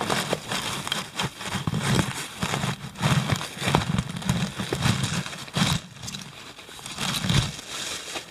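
Digging into cold ground for a metal detector target: a shovel and hands working through clumped soil, with irregular crunching, scraping and crackling handling noise.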